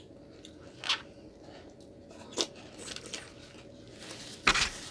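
Short rustles and clicks of takeout food packaging being handled: three brief sounds, the loudest about four and a half seconds in.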